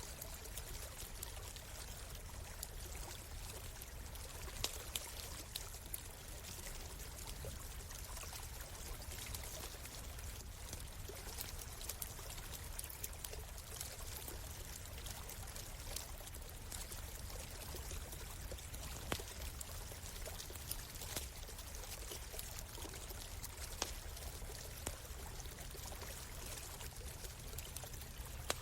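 A stream flowing steadily, with the occasional sharp crackle and pop of a campfire every few seconds.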